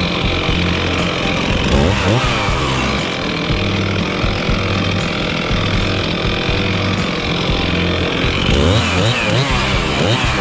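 Gas chainsaw running, revving up and down in pitch several times, most of all about two seconds in and again near the end.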